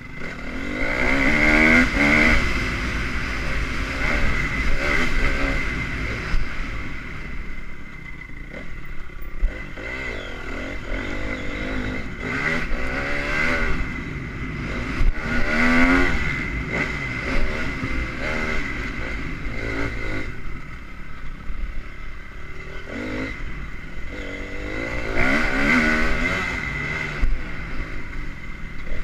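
2010 Honda CRF250 motocross bike's single-cylinder four-stroke engine running and revving up and down, climbing sharply in pitch several times.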